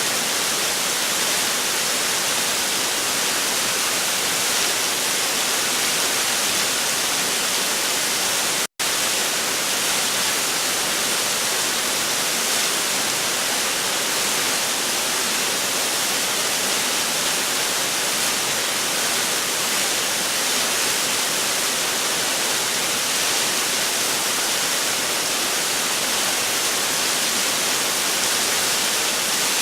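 Waterfall pouring, a steady rushing hiss of falling water heard up close, broken once by a split-second dropout about nine seconds in.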